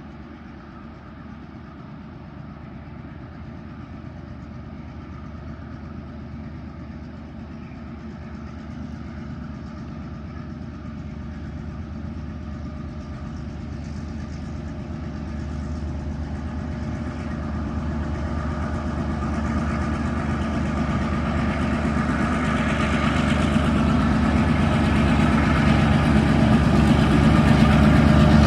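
Tasrail TR class diesel locomotives approaching under power, their low engine drone growing steadily louder throughout.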